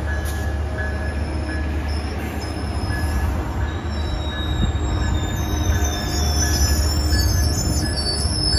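Metrolink bilevel commuter train rolling slowly past as it slows, its wheels squealing in high tones that grow stronger after about four seconds, over a steady low rumble.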